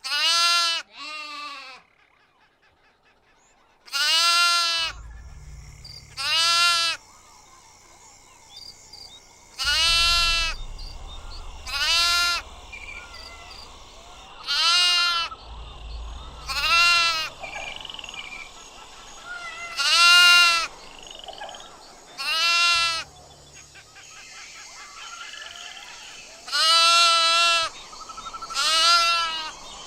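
Domestic sheep bleating repeatedly: about a dozen separate bleats, some with a wavering quaver, a second or more apart.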